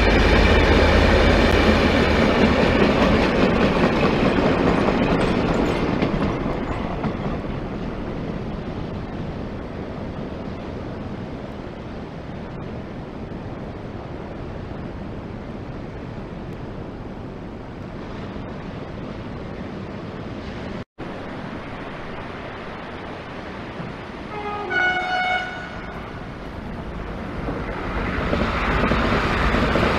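Freight train rolling past, its rumble fading away over the first several seconds into a steady hiss. About 24 s in, an electric multiple unit sounds a short horn that steps in pitch, and the noise of its approach builds near the end.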